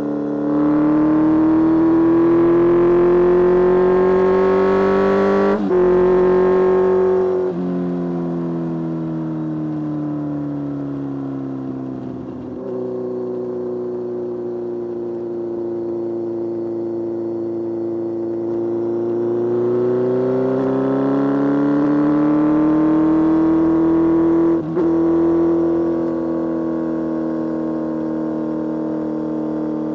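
Kawasaki Z1000's inline-four engine riding under power. It rises in pitch as it accelerates, with short breaks and drops in pitch at gear changes, and holds fairly steady between pulls.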